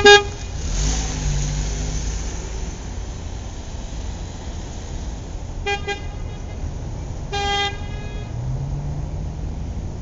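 Truck horn honking over a steady running truck engine: a loud short honk at the start, a quick double toot about six seconds in, and a longer honk soon after. The engine revs up briefly about a second in and again near the end.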